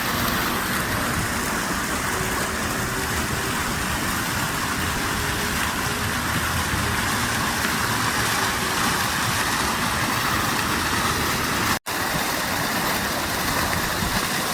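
Lake fountain's water running and splashing: a steady, even rush of falling water, broken by a momentary cut-out about twelve seconds in.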